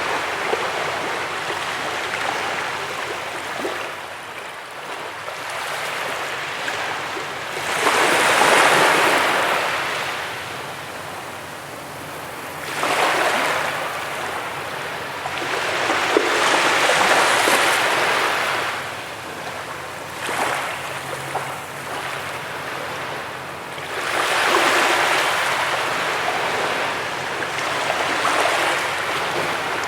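Ocean surf on a beach: waves breaking and washing up the shore, each one swelling into a loud rush every four to five seconds over a steady background wash of water.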